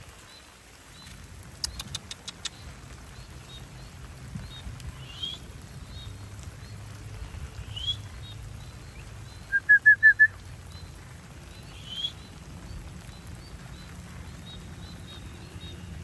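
Birds calling outdoors: short high chirps repeat throughout, with three rising calls, and about ten seconds in a loud run of five quick whistled notes. There are a few sharp clicks near the start over a steady low rumble.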